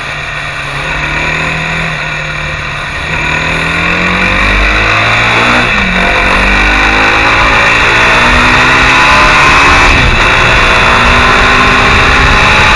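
Mondial SMX enduro motorcycle engine accelerating hard, its pitch rising through each gear and dropping at two upshifts, about 6 and 10 seconds in. It grows louder as speed builds.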